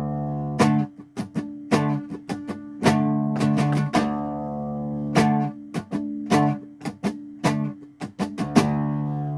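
Acoustic guitar strumming chords in an instrumental break of a song, each strum ringing out before the next, in an uneven rhythm of about one to two strums a second.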